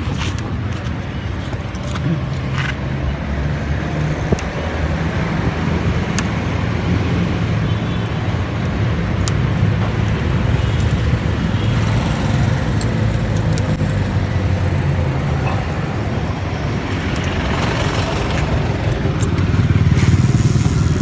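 Road traffic: a steady low engine hum from motor vehicles running close by over general street noise, with a few scattered sharp clicks.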